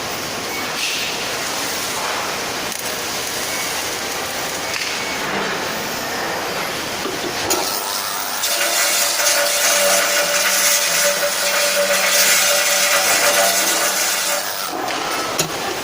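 Steady metalworking shop noise. From about halfway through, a louder even hiss with a faint steady hum comes in for about six seconds, then stops.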